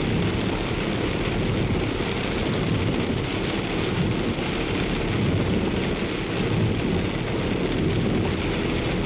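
Heavy typhoon rain beating on a car's body and windshield, heard from inside the cabin over the car's steady low running noise.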